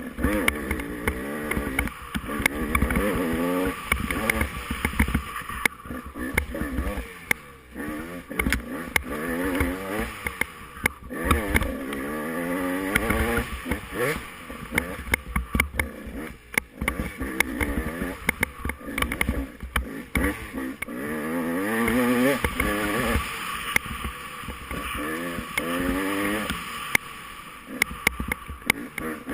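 Dirt bike engine revving hard and shifting, its pitch climbing and dropping over and over, with knocks and rattles from the rough ground and wind buffeting the microphone.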